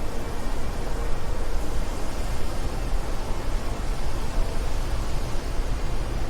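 Wind blowing steadily: a dense, even rushing noise, heaviest in the low end, with small constant swells.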